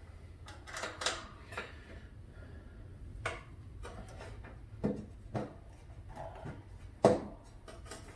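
Scattered short knocks and clicks of a new starter and its parts being handled and fitted onto a riding mower engine, with the sharpest knock a little before the end.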